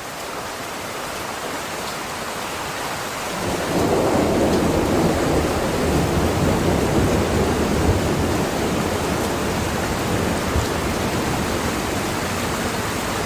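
Heavy rain falling: a dense, steady hiss that grows louder and fuller about three and a half seconds in.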